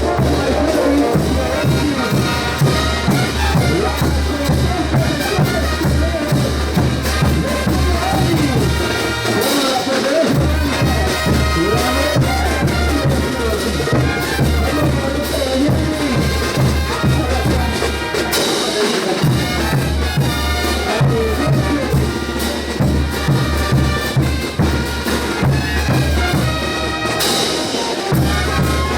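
Bolivian brass band playing ch'uta dance music: brass melody over steady bass and drums. The low bass drops out briefly about every nine seconds at phrase ends.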